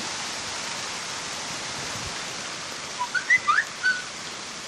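Steady rush of storm rain and wind. About three seconds in comes a quick run of about five high whistled chirps within a second, louder than the rain.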